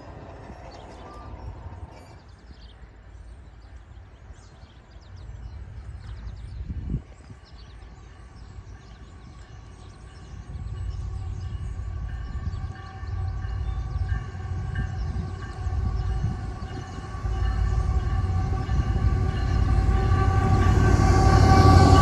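Norfolk Southern intermodal train led by a GE ET44AC locomotive approaching the crossing. A low rumble and several steady droning tones grow louder from about halfway through and are loudest as the locomotive reaches the crossing near the end. There is a single short knock about seven seconds in.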